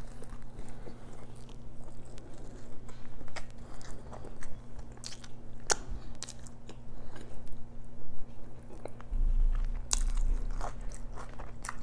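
Close-miked eating: a person biting and chewing food, with scattered sharp clicks and smacks.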